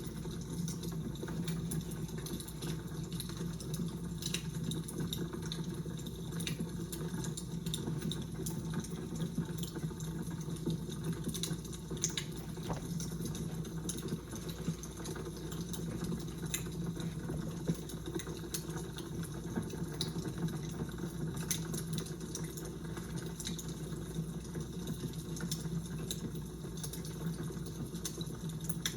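Fire crackling: irregular small sharp pops and snaps over a steady low rumble.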